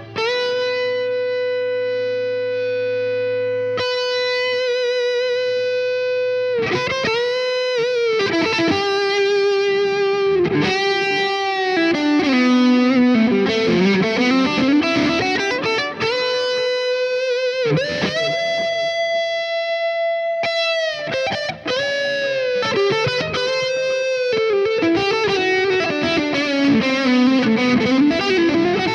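Electric guitar through a Joyo R-20 King of Kings overdrive pedal, playing a lead line with long sustained notes, string bends and vibrato.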